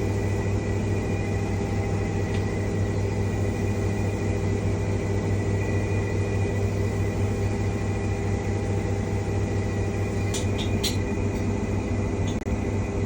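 Washing machine running steadily in the last stage of its cycle, a constant motor hum with thin high whining tones. A few light clicks come about ten seconds in.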